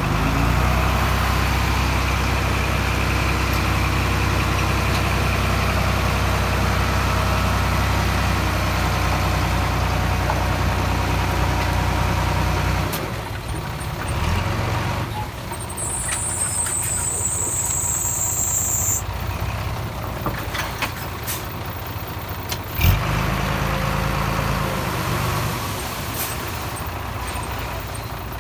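Diesel engine of earthmoving machinery running steadily under load, dropping off about halfway through. A high hiss comes a few seconds later, then a single sharp knock.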